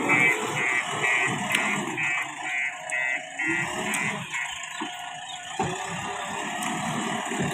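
Backhoe loader's reversing alarm beeping about twice a second, stopping about four seconds in, over uneven low rumbling from the machine.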